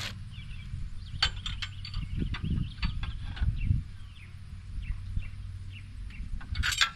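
Mini skid steer's small engine running steadily, with a cluster of sharp metallic clicks and knocks early on, heavier rumbling strain in the middle, and a loud clattering rattle near the end. This is the machine being worked to turn its raised, over-tensioned track, which stays stuck.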